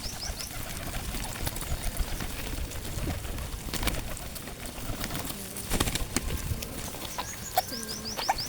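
Pigeons cooing in a feeding flock, with a few sharp clicks. Near the end a small bird gives a quick run of short, high chirps.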